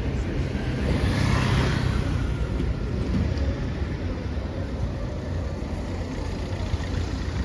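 City street traffic: a steady low rumble of engines, with a car passing about a second in, its tyre hiss swelling and fading.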